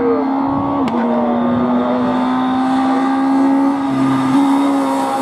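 Hill-climb race car engine accelerating, with an upshift about a second in: a short dip in pitch, then the revs climb steadily through the next gear.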